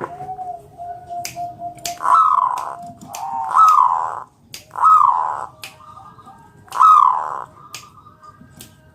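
Zebra dove (perkutut) calling: a series of short cooing notes that rise and fall, four of them loud, with softer lower coos and sharp clicks between them.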